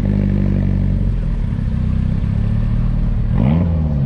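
A car engine running at low revs close by, holding a steady note, with a brief rise and fall in pitch near the end.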